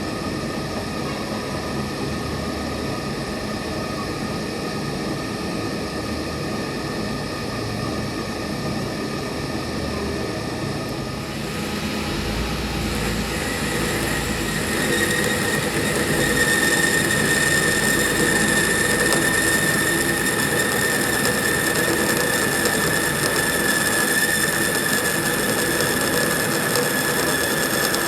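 A metalworking machine running steadily. About halfway through, a high, steady whine comes in and the sound grows louder.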